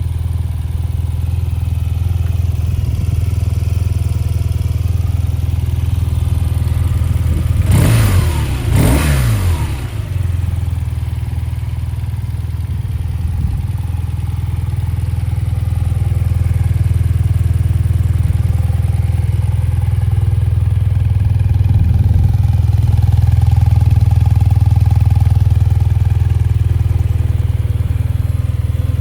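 BMW R 12 nineT's 1170 cc air/oil-cooled boxer twin idling steadily, with two quick throttle blips about eight and nine seconds in.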